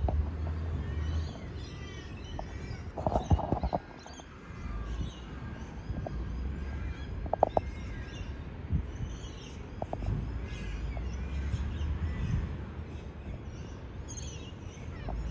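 Garbage truck engine running with a low rumble that fades and returns, with several sharp metallic clanks and knocks, the loudest a few seconds in and again around the middle. Birds chirp throughout.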